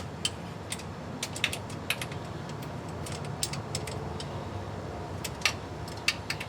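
Irregular light metallic clicks and clinks of hand tools, over a steady low hum.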